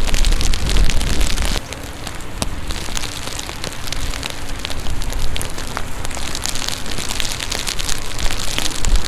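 Steady rain, with many raindrops hitting close to the microphone as sharp ticks. A loud low rumble under the rain drops away about a second and a half in.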